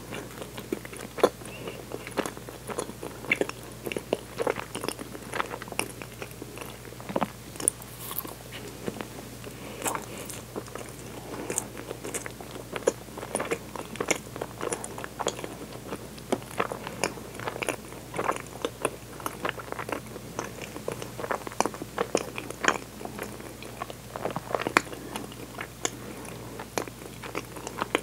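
Close-miked eating sounds: a person biting and chewing a soft dorayaki, with many small, irregular wet mouth clicks.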